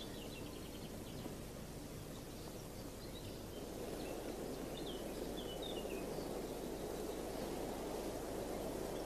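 Quiet outdoor ambience: a steady low background rush, with faint bird chirps, a short run of them near the start and a few more about halfway through.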